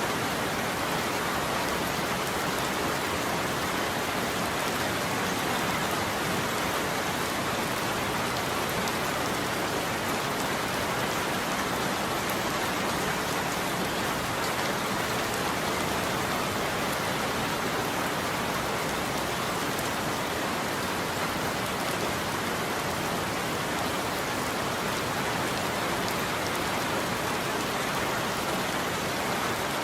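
Steady, heavy rain falling on a roof: an even, unbroken hiss of drops.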